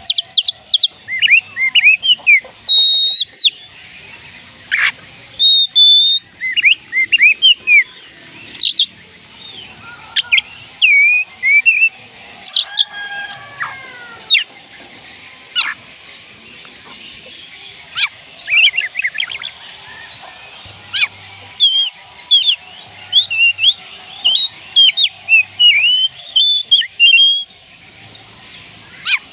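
Oriental magpie robin singing: a fast, varied run of short whistled notes and swooping phrases, broken by brief pauses.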